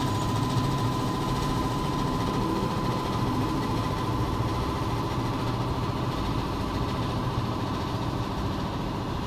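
A motor running steadily with a fast, even rattling pulse and a thin steady whine.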